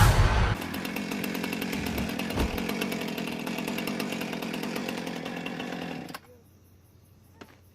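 Small engine running steadily with a fast, even firing rhythm, cutting off suddenly about six seconds in. Before it, a louder burst of crowd noise and music ends in the first half second.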